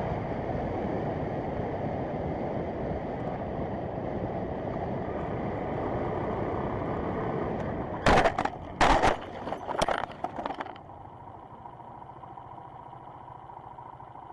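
Steady driving noise of a road vehicle: engine, tyre and wind roar. About eight seconds in, several loud sharp knocks or bangs break through it. Then the sound drops abruptly to a quieter steady hum with a faint high whine.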